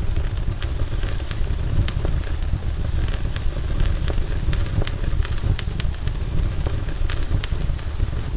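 Campfire burning, with irregular sharp crackles and pops from the wood over a steady low rumble.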